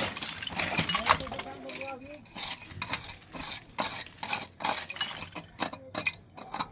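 Repeated clinks and clatter of small hard objects being handled, dense in the first couple of seconds and then more scattered.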